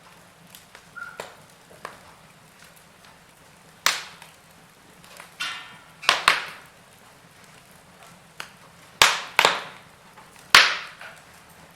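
Burning logs in a fireplace crackling, with about seven sharp, loud pops spread through, over a faint steady hiss.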